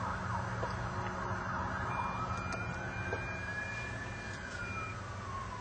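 Distant emergency-vehicle siren wailing: one slow rise in pitch over about four seconds, then falling away, over a steady low hum.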